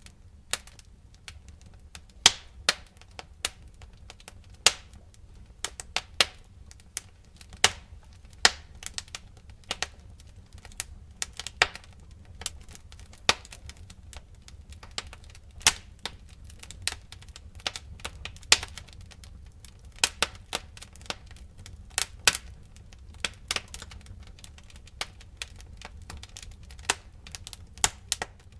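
Fire crackling: irregular sharp snaps and pops, a few of them much louder, over a low steady rumble.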